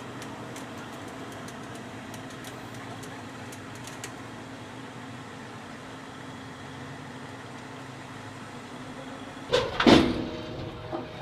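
A vehicle engine running steadily, then a loud sudden burst about nine and a half seconds in.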